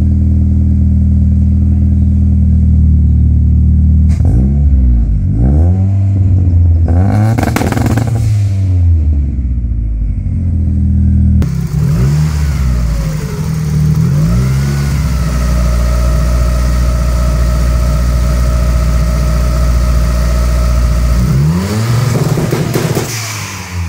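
Boosted Hyundai Tiburon engine idling, then blipped up and back down several times. After a cut, it is revved up and held at one steady rpm for about six seconds against the two-step launch-control limiter, then drops back. It is heard first at the exhaust tailpipe, then from the open engine bay.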